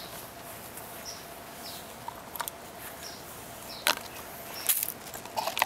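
A bird's short, high chirps over faint outdoor background noise, with several sharp clicks, the loudest a little under four and about four and a half seconds in.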